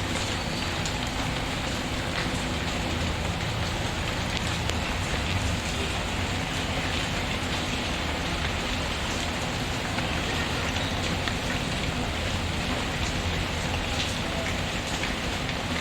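Steady rain pattering, dense and even, with scattered faint ticks.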